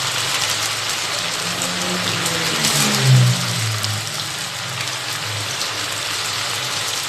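Hot oil sizzling steadily as marinated chicken pieces fry in a pan, with a low hum underneath and a brief louder swell about three seconds in.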